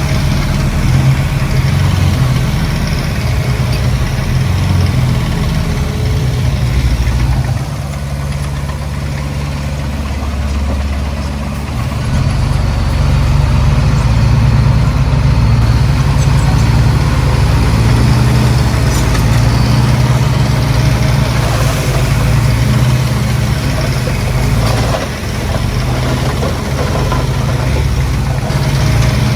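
Heavy diesel engine of earth-moving machinery running steadily, easing off for a few seconds about a quarter of the way in and again briefly near the end.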